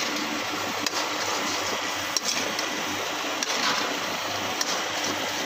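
Chicken and tomato karahi masala sizzling steadily in a black iron karahi over a gas burner, with a few light clicks of a spatula against the pan as it is stirred.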